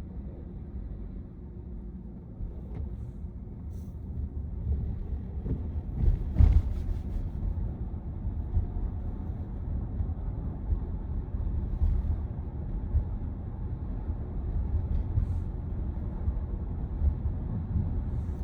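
Road and tyre noise inside a Tesla Model Y's cabin while driving, a steady low rumble with no engine sound from the electric drivetrain. A single short thump about six seconds in is the loudest moment.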